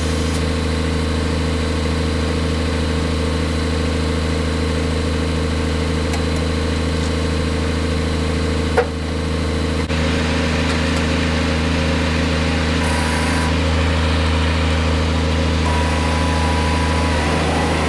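The Cummins ISX diesel engine of a 2009 Peterbilt 367 winch truck runs steadily at a low, even speed. There is a single sharp click about nine seconds in.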